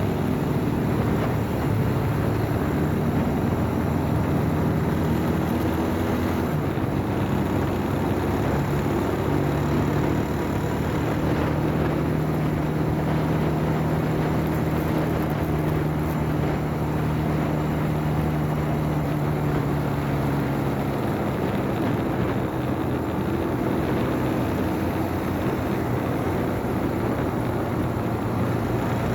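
Motorcycle engine running under way, its note holding fairly steady and shifting in pitch a few times as speed changes, with a steady rush of wind and road noise.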